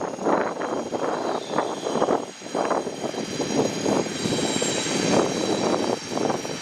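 Electric train running past the platform: a steady rushing noise that swells and dips, with a faint high whine above it.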